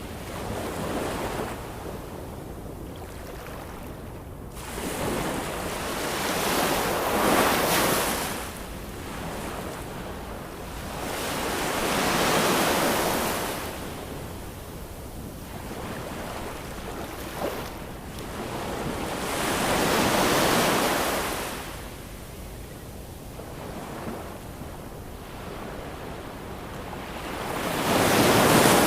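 Ocean waves surging and falling back in slow swells, four of them, each rising to a hiss and fading, the loudest near the end.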